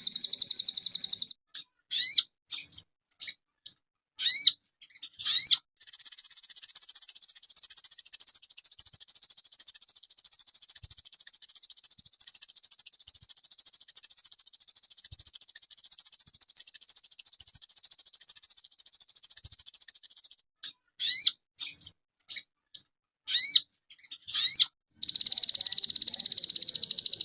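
Sogon bird singing: a high, very fast, continuous trill that breaks twice into a handful of separate sharp, sweeping chirps before the trill picks up again.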